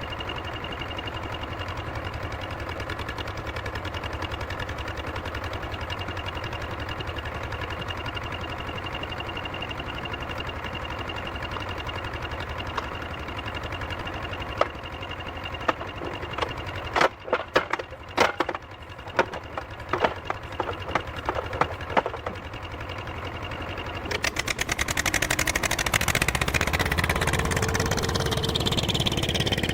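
Heavy forestry machine's engine running steadily, with a run of loud knocks and clunks in the middle, then the sound turning louder with a falling whine near the end.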